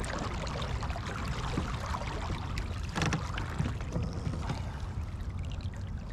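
Water splashing and trickling against a fishing kayak's hull, with a brief knock about three seconds in.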